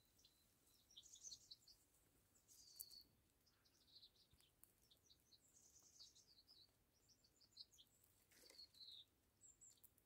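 Faint chirping of small songbirds: many short, high calls scattered throughout, a few of them falling notes, with a couple of brief clicks.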